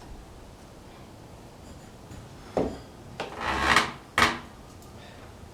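A sharp knock, then a scrape lasting most of a second, then another knock, like hard objects being dragged and set down.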